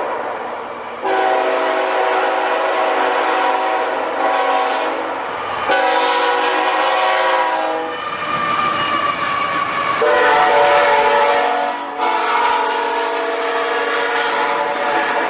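Locomotive air horn sounding a chord of several notes together in a series of long blasts, the chord shifting a little from blast to blast.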